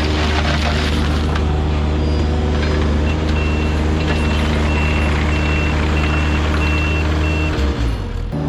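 Heavy land-clearing machine's engine running steadily, with a backup alarm beeping about twice a second from about three seconds in. The engine note dips briefly near the end.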